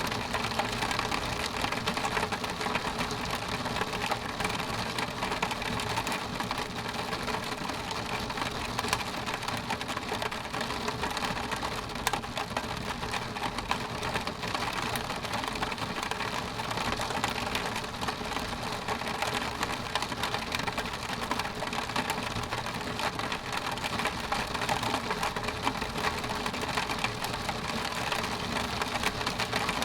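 Rain falling steadily on window glass: a dense, even stream of small drop ticks over a hiss, with no thunder.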